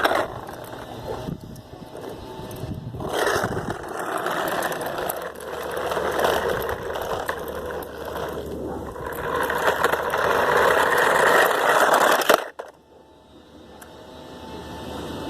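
Toy garbage truck's plastic wheels rolling along a driveway, a rough, grinding rattle that swells and eases a few times and cuts off suddenly near the end.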